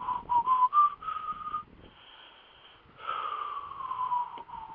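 A man's heavy breathing with a whistling, wheezy tone as he strains bending down. The tone wavers in the first second or so, stops, then returns and glides slowly down in pitch near the end.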